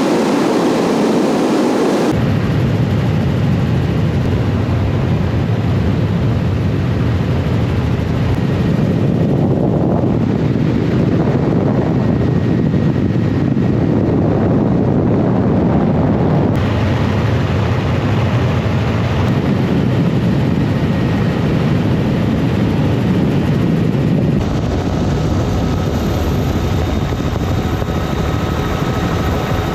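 Helicopter running in flight, heard as a loud, steady rotor-and-turbine drone, with a few abrupt changes in tone where separate recordings are joined.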